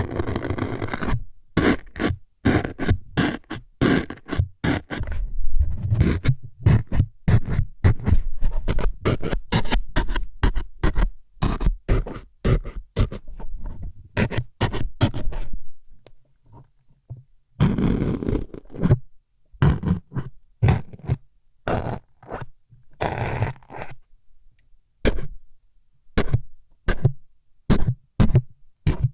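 Close-up ASMR scraping and stabbing sounds meant as needles jabbing into the ear: many short, sharp strokes in quick irregular succession, with a few longer scrapes mixed in and a short pause about two thirds of the way through.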